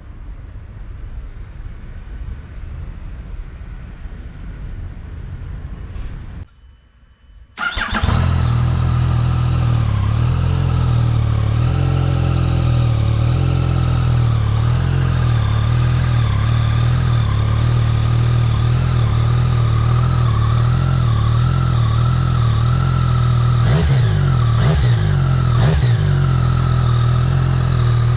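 Low rumbling noise, then a short near-quiet gap. About eight seconds in, a Yamaha XSR900's three-cylinder engine starts through an Akrapovic titanium full exhaust fitted with a custom-cut, drilled dB killer, and idles with a deep, bassy note. Near the end come two quick throttle blips.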